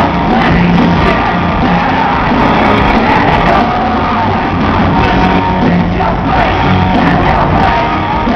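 Hard rock band playing live in a large hall, with loud drums and guitars under a shouted, sung vocal.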